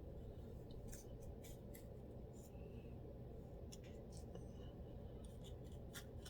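Faint scratching on a scalp with dandruff: a dozen or so short, irregular scrapes over a steady low hum.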